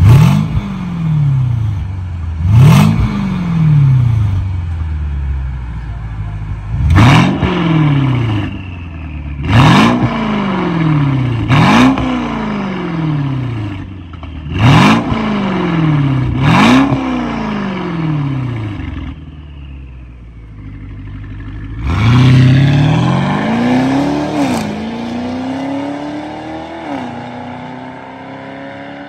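Mercedes-Benz W222 S-Class twin-turbo 4.0-litre V8 with a valved aftermarket exhaust being revved while stationary: about seven quick throttle blips, each rising sharply and falling back to idle, then one longer rev that eases down to a steady run. Whistling high notes track the revs.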